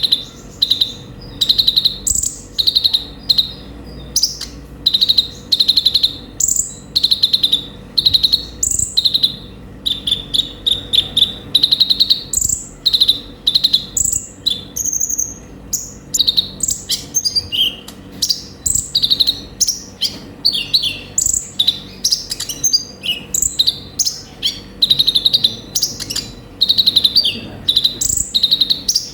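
Sunbird (konin, the 'kolibri ninja') singing in an unbroken stream of short, rapid, high-pitched chirping trills, one burst following another, with a faint steady hum underneath.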